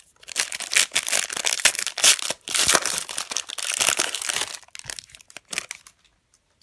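Trading-card pack wrapper crinkling as it is torn open and crumpled, for about four seconds, followed by a few light ticks.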